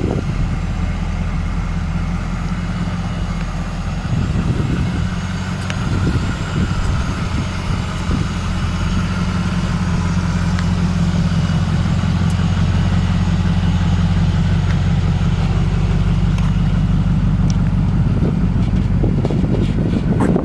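The Firebird Trans Am's 5.7-litre LS1 V8 running steadily with a low, even exhaust note.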